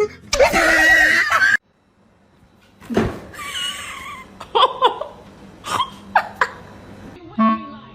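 A cat crying and meowing: a loud drawn-out yowl at the start, then a few short meows, with a sharp knock about three seconds in.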